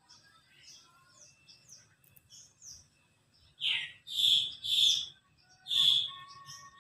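Small birds chirping: a run of quick, high chirps, then four louder calls in the second half, the first sliding down in pitch.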